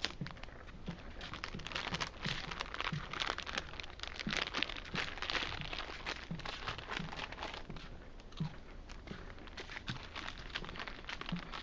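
Snack bag crinkling and chips crunching close to the microphone as they are eaten, with soft regular thumps about twice a second.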